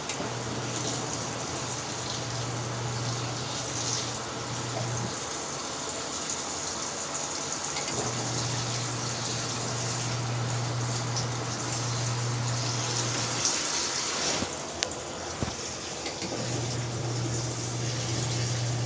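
Water running into a portable washing machine's tub as it fills, with a low motor hum that runs for several seconds, stops for a few seconds and starts again, twice over.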